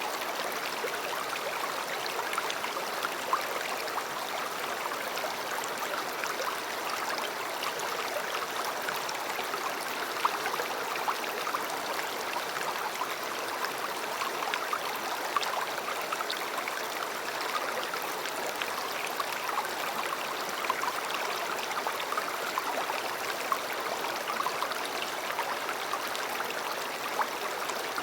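River water flowing steadily, a continuous rushing babble with frequent small splashes.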